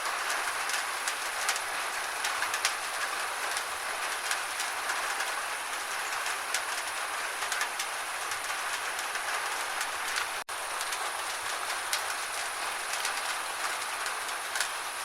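Gentle steady rain, an even hiss with many separate drops ticking on a surface. The sound drops out for an instant about ten and a half seconds in.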